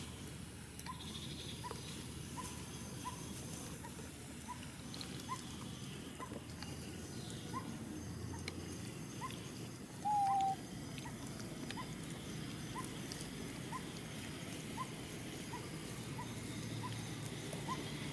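A faint, short rising chirp repeating about every two-thirds of a second over a low outdoor rumble, with one louder, longer animal call about ten seconds in.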